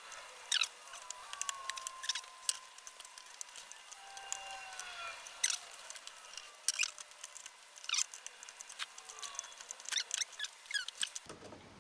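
Small clicks, ticks and faint squeaks of plastic laptop parts being handled and worked on: scattered sharp clicks throughout, with a few brief squeaky creaks of plastic.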